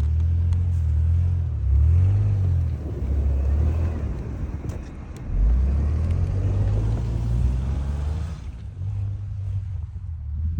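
A vehicle engine revving under load, its pitch rising and falling in surges, with a swell about five and a half seconds in, then easing off near the end.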